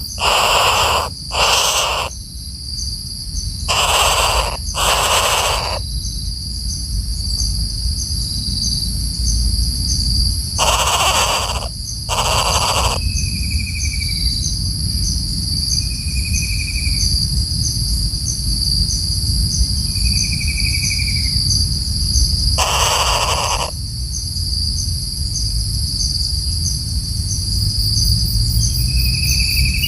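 Common flameback woodpecker giving short, harsh alarm calls, seven in all and mostly in pairs, as its nest is disturbed. A steady insect drone runs underneath, and a few faint short whistles come from another bird.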